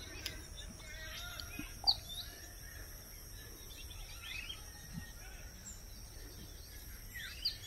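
Scattered short bird chirps and calls over a steady high background drone and a low rumble of outdoor ambience.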